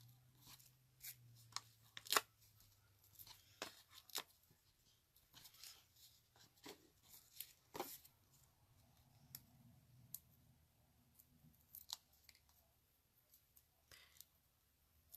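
Faint, scattered taps and rustles of paper and craft supplies being handled on a worktable, one small click every second or so.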